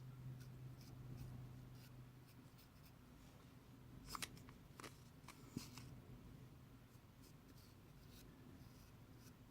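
Near silence: faint room tone with a low hum and a few small clicks about four to six seconds in.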